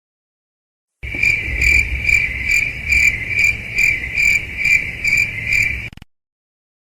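Crickets chirping sound effect, the stock cue for an awkward silence. A steady high chirping pulses about twice a second, starts about a second in and cuts off abruptly near the end.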